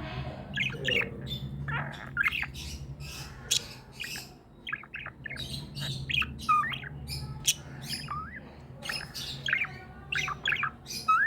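Pet budgerigars chirping and squawking in a quick, irregular run of short calls, over a steady low hum.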